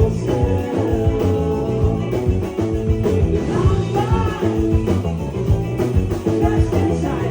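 Live rock band playing: electric guitars, bass and drums with a singing voice, recorded from the audience in a club.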